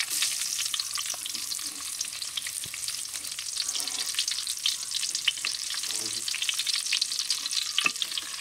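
Raisins sizzling and crackling in hot oil in a large pan, stirred now and then with a ladle.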